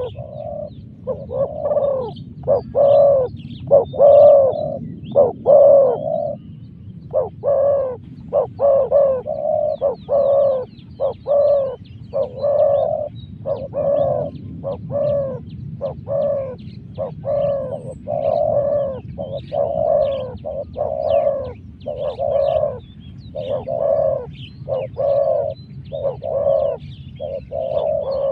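Spotted doves cooing over and over, about one coo a second with a brief pause about six seconds in, while faint high chirps of small birds sound in the background.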